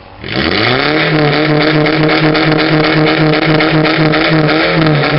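A vehicle's engine revved through a tuned exhaust for an exhaust-sound contest: it climbs quickly to high revs and is held there steadily for about four seconds, starting to drop back near the end.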